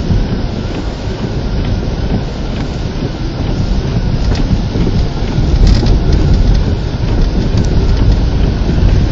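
Heavy rain and wind noise over a deep rumble, growing louder about five seconds in, with a few sharp ticks of drops striking.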